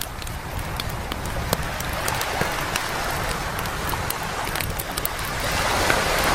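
Bonfire crackling with sharp pops while ocean waves wash onto the beach; the surf swells louder near the end.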